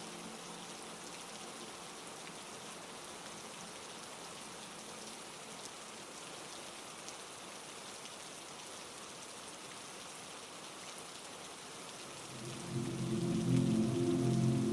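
Heavy rain falling steadily, an even hiss of many drops. About twelve seconds in, a low droning hum of steady tones swells in and becomes louder than the rain.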